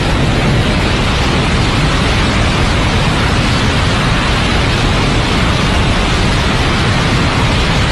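Steady, loud rushing roar of aircraft in flight, an even noise with no distinct tones.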